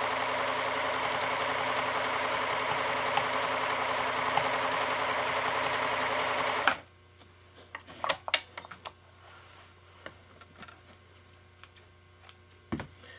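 Pfaff 1229 sewing machine running steadily as it sews a decorative pattern stitch, stopping abruptly about halfway through. A few light clicks and taps follow.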